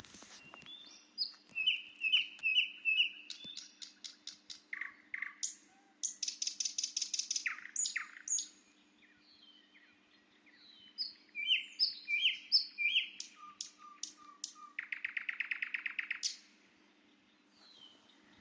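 Nightingale song among other singing birds: varied phrases of whistles, repeated notes and fast rattling trills, with short pauses between phrases. A faint steady low hum runs underneath.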